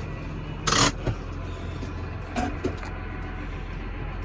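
Massey Ferguson tractor's diesel engine running steadily at idle, with a short loud hiss or clatter just under a second in and a smaller one a little past halfway.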